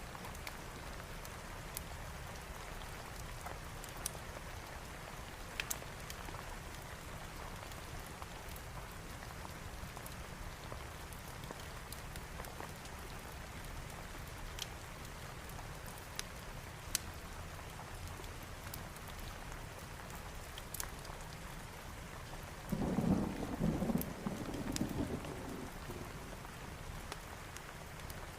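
Steady heavy rain with scattered sharp ticks. About three-quarters of the way through, a rumble of thunder rolls for a few seconds.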